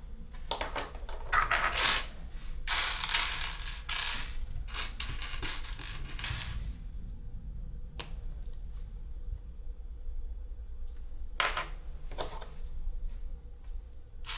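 LEGO plastic pieces being handled during a build. For the first half or so there is a dense run of plastic clattering and clicking, then a few separate sharp clicks.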